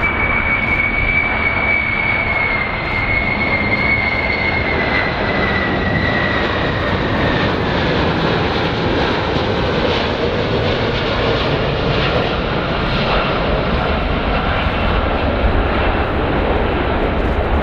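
Jet aircraft engines running loud and steady, with a high whine that slowly falls in pitch over the first several seconds as the airplane goes by.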